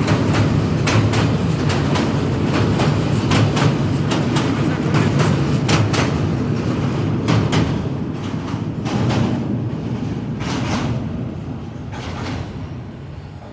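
Train crossing a bridge: a steady low rumble with many sharp wheel clacks over the rail joints. It fades away over the last few seconds as the train moves off.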